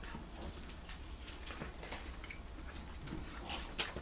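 Chewing and wet mouth clicks and smacks of people eating, coming at irregular spacing, with a sharper click a little before the end.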